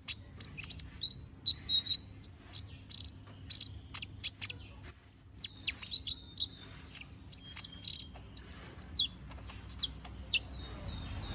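A kolibri ninja (konin) sunbird singing in full voice, a fast, jumbled string of sharp, high chirps and short whistled notes, some slurring downward, as it runs through its repertoire of learned phrases. The song thins out near the end.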